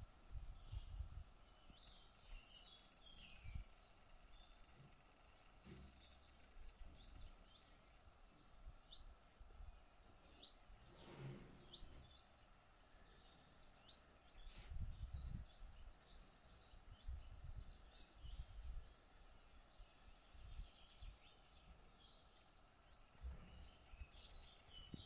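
Faint outdoor ambience: scattered small birds chirping, with irregular low rumbles in the background.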